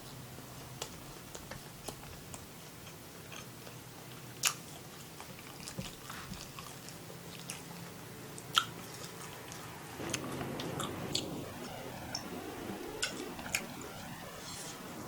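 Close-miked eating of beef fried rice: chewing with scattered sharp clicks, the two loudest about four and a half and eight and a half seconds in. The chewing gets louder and denser about ten seconds in.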